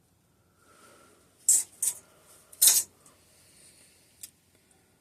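Small hard parts and tools handled and set down on a workbench during a hydraulic disc brake teardown: two sharp clicks about a second and a half in, then a longer clatter, and a faint tick near the end.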